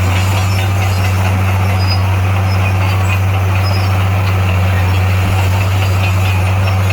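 Bulldozer's diesel engine running steadily under work, a deep, even drone with no change in pitch.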